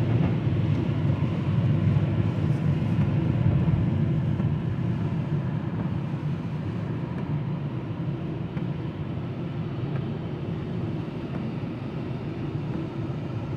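Steady low rumble of a vehicle, with no speech, easing off somewhat after about four seconds.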